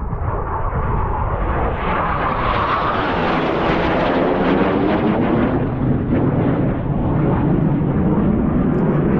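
Military fighter jet flying low overhead: a loud rushing jet noise that swells, is brightest about three to four seconds in with a sweeping, phasing quality as it passes, then stays loud as it moves away.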